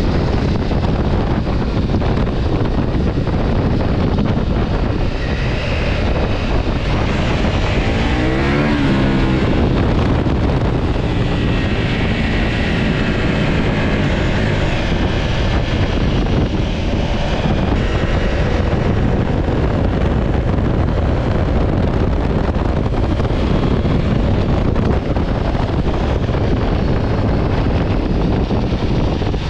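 Wind rushing over the microphone of a moving motorcycle, with the engine running underneath. About eight seconds in, an engine note rises and falls briefly.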